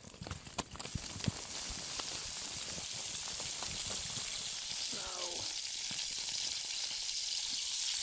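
Bacon sizzling in a pan over a campfire: a steady hiss that builds up over the first second or so, with a few crackles near the start.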